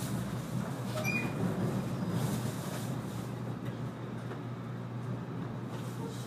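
Interior running noise of a 485-series electric train in motion: a steady low rumble of wheels on rail, with a few faint clicks, heard from inside the carriage.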